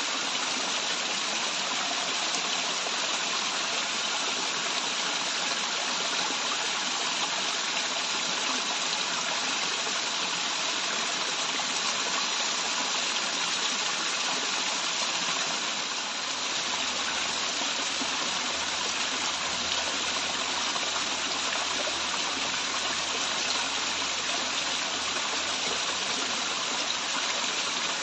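Waterfall: running water making a steady, even rush, with a faint low rumble joining it about halfway through.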